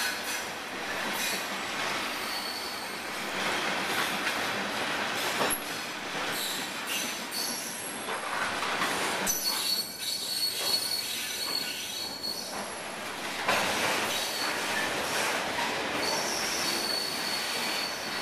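Freight cars rolling past on steel rails, a steady rolling rumble and clatter with thin, high wheel squeals that come and go, strongest about ten seconds in and again near the end.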